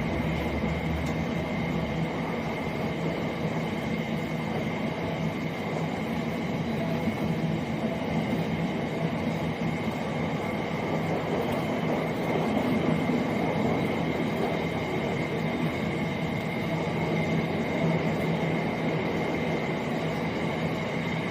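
Class 70 diesel locomotive passing at the head of a long freight train of aggregates wagons: a steady, continuous run of engine and wheel noise with a thin, high whine over it.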